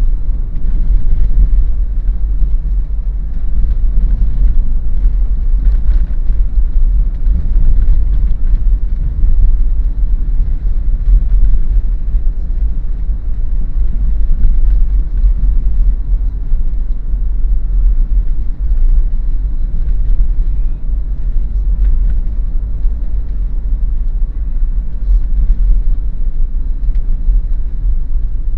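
Daihatsu Terios SUV driving along the road: a steady low rumble of engine and tyre noise.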